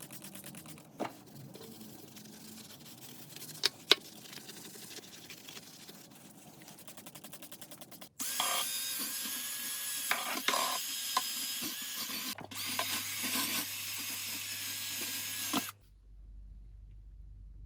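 Workshop handwork with a few sharp knocks, then an electric power tool running loud and steady from about halfway in, in two stretches with a short break, stopping abruptly and leaving a low hum.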